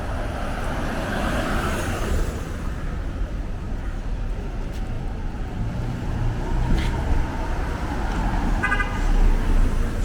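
City street traffic: a steady low rumble of cars passing, with a short horn toot near the end.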